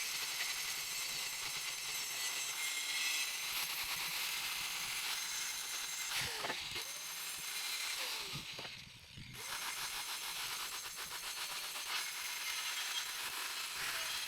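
Angle grinder with an abrasive disc working rust off steel, a steady high whine with scraping. About nine seconds in it winds down with a falling pitch and goes nearly quiet for a moment, then starts up again.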